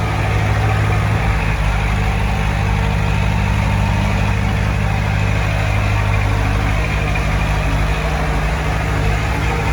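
Heavy diesel engine of earthmoving machinery running steadily at a constant low speed.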